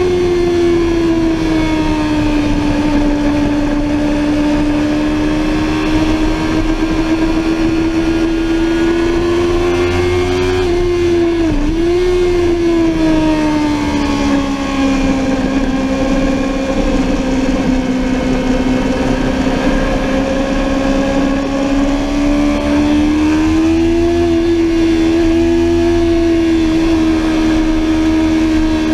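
Sportbike engine running hard at high revs, heard from onboard over a low wind rush. The engine note dips sharply and briefly about eleven seconds in, then climbs again near the end.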